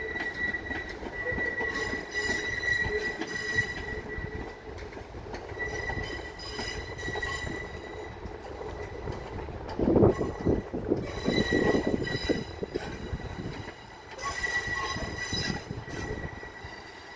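Train wheel flange squeal from a Class 375 Electrostar unit creeping slowly through curved track on a shunt move into sidings. A high, steady squeal with overtones comes and goes in several stretches, with a louder rumble and clatter of wheels over pointwork about ten seconds in.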